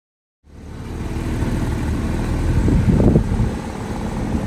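A vehicle engine running steadily, fading in from silence, with a brief rise in revs about three seconds in.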